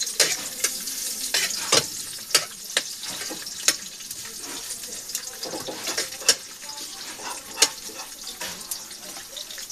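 Mussels being rinsed under running water, with a steady hiss of water and many sharp clacks of shells knocking against each other and the basin.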